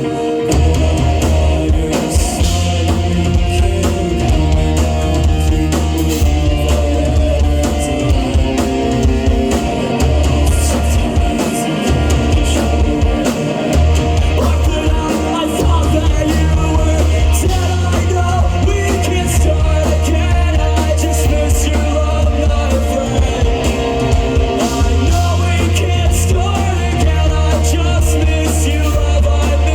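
Live rock band playing loudly: drum kit, guitars and a heavy bass line, with singing at times. The bass drops out briefly a few times.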